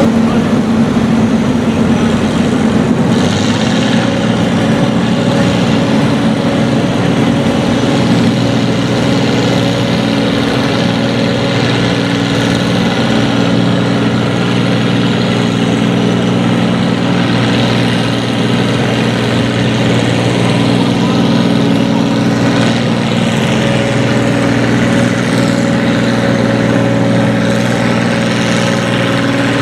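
Farm tractor engine running steadily at a low, even speed, with no revving or full-throttle pull.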